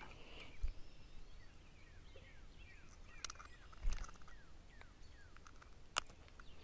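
Birds chirping in a quick series of short falling notes, with a few knocks and clicks from hands working a jig hook out of a freshly caught crappie's lip; the sharpest click comes about six seconds in.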